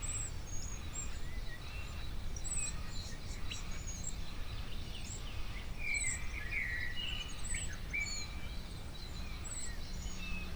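Several birds calling and chirping, with a short high chirp repeating about once a second among other whistles and trills, over a steady low rumble.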